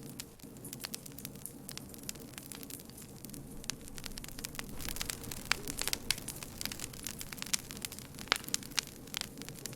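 Campfire crackling: many sharp pops and snaps of burning wood over a low steady hiss of flames, the pops coming thicker in the second half.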